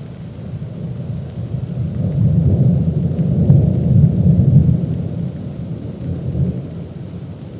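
A long roll of thunder: a deep rumble that swells over the first few seconds, peaks in the middle and dies away.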